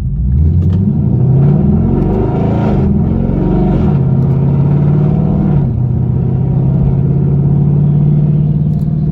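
Straight-piped 2013 Camaro 2SS's 6.2-litre V8 accelerating hard. Its note rises and drops with quick upshifts over the first few seconds, then settles into a steady drone that steps down once about halfway through.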